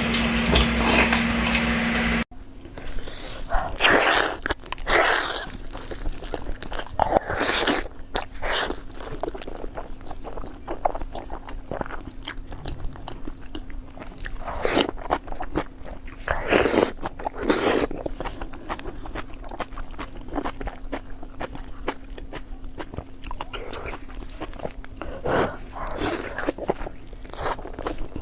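Close-miked eating: a person biting and chewing crunchy food, with irregular crisp crunches. The first couple of seconds hold a louder, steadier sound with a low hum that cuts off abruptly.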